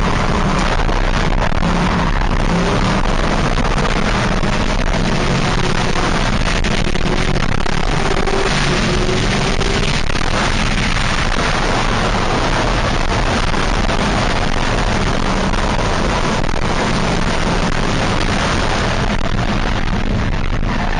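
Car engine running hard under a loud, steady rushing noise, with no clear breaks.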